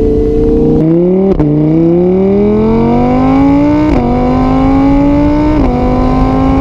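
Audi R8's 5.2-litre naturally aspirated V10 accelerating hard through the gears. Its engine note climbs and drops sharply at each of three upshifts.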